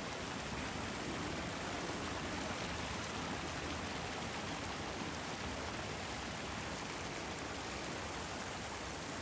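Steady, unbroken rush of alpine mountain water from a waterfall and its torrent.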